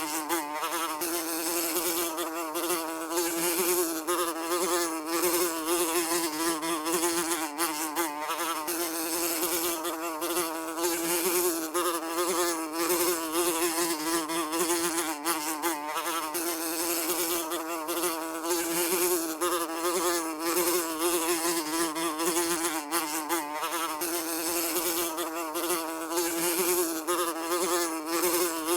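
A fly buzzing continuously, one unbroken drone whose pitch wavers slightly up and down.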